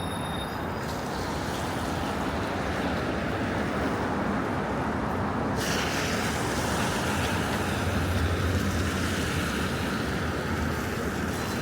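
Metro train running: a steady rumble and rushing noise. About halfway in the hiss suddenly gets brighter and stays that way.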